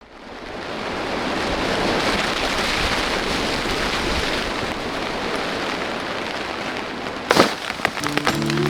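Heavy rain with wind, a steady rushing hiss that fades in at the start. About seven seconds in there is a sudden loud burst, followed by sharp dripping ticks, and music begins near the end.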